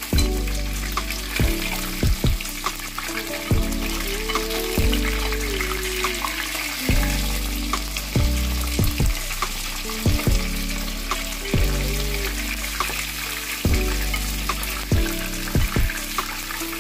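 Fish frying in hot oil: a steady sizzle as the pieces are turned in the pan with a metal spatula. Background music with a bass beat plays under it.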